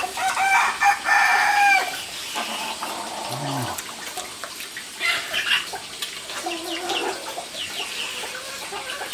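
A rooster crows once, a long held call in the first two seconds, followed by softer clucking from chickens.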